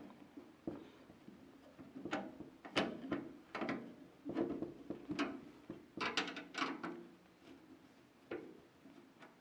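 A screwdriver working the screws on the expansion-slot covers at the back of a PC case: an irregular string of short metal clicks and scrapes.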